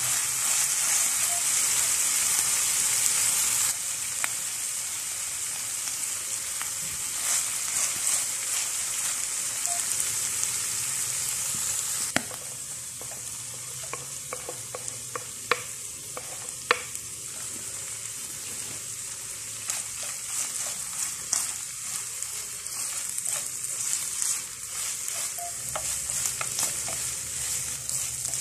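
Tuna and onion sizzling in oil in a nonstick frying pan while a wooden spatula stirs and scrapes through it. Midway come a series of sharp taps and scrapes as chopped tomato is pushed off a wooden cutting board into the pan, and the sizzle gets quieter in two steps.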